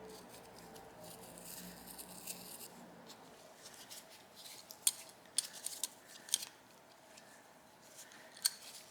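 Small metal clicks and scraping from hand tools working on carburetor parts: soft scraping in the first few seconds, then a handful of sharp separate clicks about halfway through and one more near the end.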